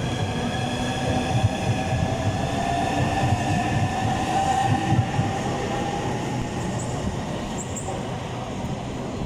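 Southeastern Class 395 high-speed electric train moving through the station: steady rumble of the train with an electric whine of several tones that slowly drifts lower in pitch.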